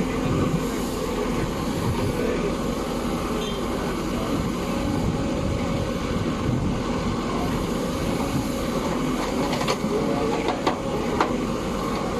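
Heavy machinery's diesel engine running steadily, with a few sharp metallic clanks near the end.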